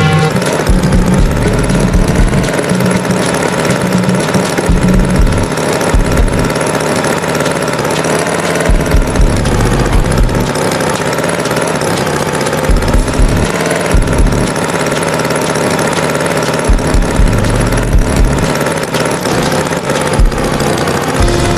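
Tractor engine sound effect running steadily, with a low, uneven thudding underneath.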